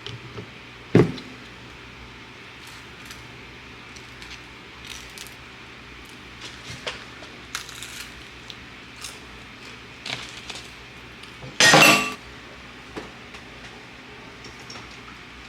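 Dishes, glassware and cutlery being handled in a kitchen: scattered light clinks and taps, a sharp knock about a second in, and a louder clatter lasting under half a second about three-quarters of the way through, over a low steady hum.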